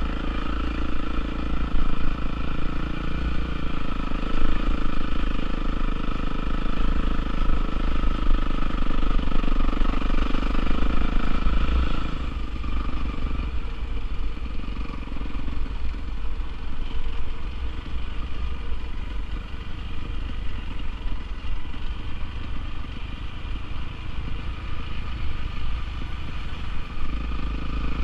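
Honda CRF450R motocross bike's single-cylinder four-stroke engine running, its note dropping and getting quieter a little before halfway through.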